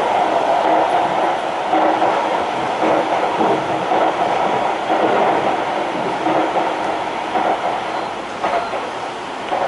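Kyoto Municipal Subway 20 series train with Mitsubishi SiC inverter drive running at speed, heard inside the car: a steady rumble of wheels on rail with small recurring swells, easing slightly near the end.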